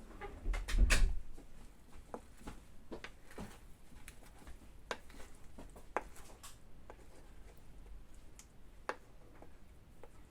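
Kitchen handling sounds while cooking: a louder clattering bump about a second in, then scattered sharp clicks and light knocks of a utensil against a frying pan.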